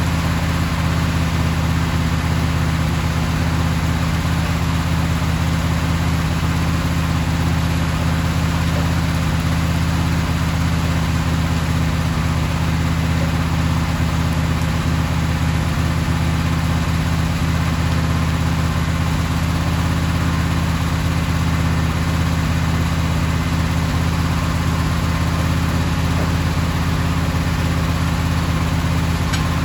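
Engine running steadily at one constant speed, a low even hum with no change in pitch or load.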